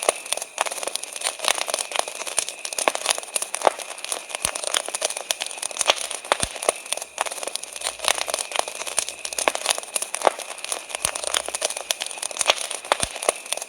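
Wood campfire crackling, with a dense, irregular stream of sharp pops and snaps. Behind it runs a steady high chirring of crickets.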